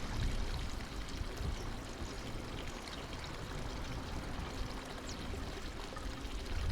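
Steady splash and trickle of running water, like a small garden pond water feature, with a faint high bird chirp about five seconds in.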